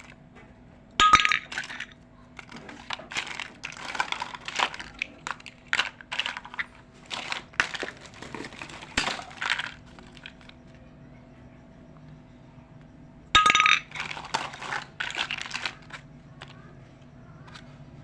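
Small toy kitchen pieces clinking and rattling as they are handled. A sharp clink with a brief ring comes about a second in and again near the 13-second mark, and each is followed by a few seconds of quick small clicks.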